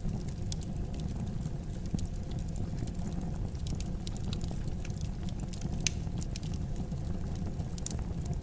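Fire burning in a fireplace, crackling: scattered sharp pops over a steady low rumble, with one louder pop about six seconds in.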